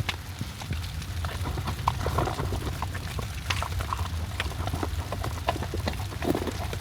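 A large Labrador–Jindo mix dog eating, with irregular crunches and clicks of chewing over a steady low rumble.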